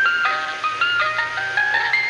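A tinkling chime melody: a quick run of bell-like notes stepping up and down, over a steady background hiss.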